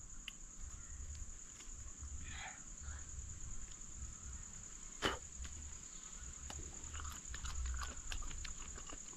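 Wet chewing and smacking as ripe jackfruit bulbs are pulled apart and eaten by hand, with scattered small clicks and one sharp click about five seconds in. Under it runs a steady high-pitched insect drone.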